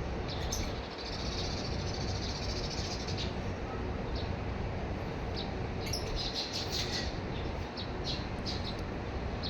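Small birds chirping and twittering in two spells, the first starting about half a second in and the second around six seconds, with a few single chirps between, over a steady background hiss.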